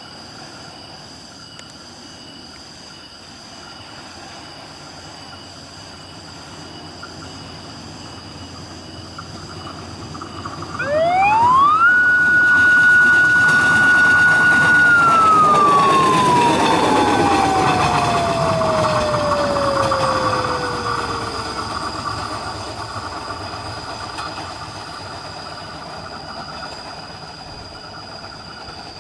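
Progo passenger train passing close by, with a loud rumble and a high whine that climbs in pitch, holds for a few seconds, then slides down as the train goes by. The whine sounds like an aircraft.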